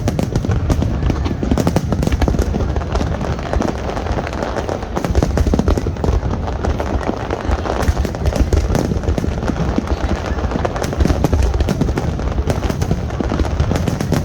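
Fireworks display: a rapid, unbroken barrage of bangs and crackles over a deep rumble of booms.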